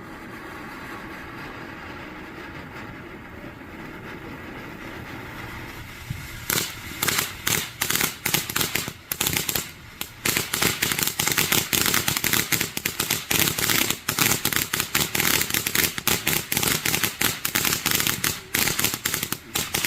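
Consumer fireworks: a steady hiss for about six seconds, then a long rapid string of sharp bangs, several a second, lasting about thirteen seconds before it stops suddenly.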